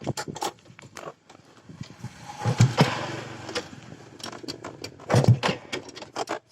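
Clicks and clatter of handling a Cub 50cc motorcycle, with two short low-pitched bursts, about two and a half and five seconds in.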